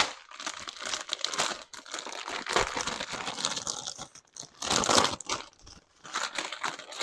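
Plastic produce bag of fresh green beans crinkling and rustling as it is handled and opened, in uneven spells with the loudest about five seconds in.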